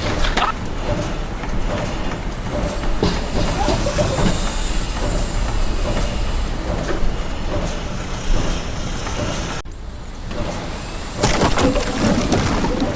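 Heavy machinery or vehicle running, a dense mechanical din; it cuts out abruptly just under ten seconds in and comes back louder about a second later.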